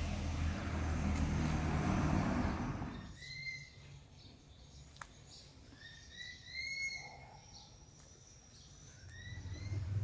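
A steady low rumbling noise for about the first three seconds, then, in quiet, a handful of short, bending bird chirps scattered through the rest, with a single click about five seconds in.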